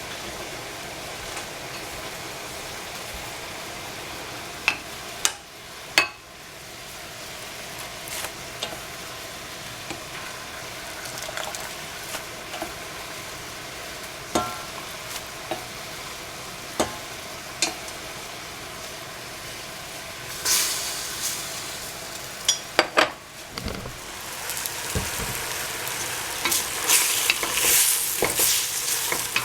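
Vegetables frying and sizzling in a hot pan, with scattered sharp clicks of a utensil against the pan. The sizzle grows louder and busier about two-thirds of the way through, as the food is stirred more.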